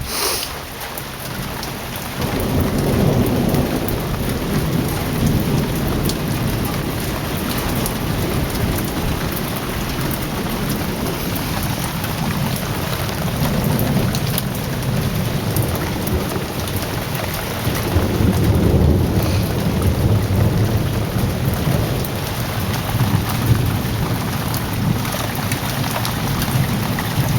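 Heavy rain pouring steadily, with rolling thunder: a low rumble builds about two seconds in and swells again about two-thirds of the way through.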